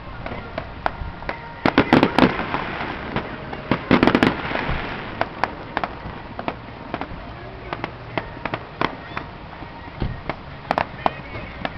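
Fireworks going off: scattered sharp bangs and crackles, with two bursts of loud rapid bangs about two and four seconds in, and another run of cracks near the end.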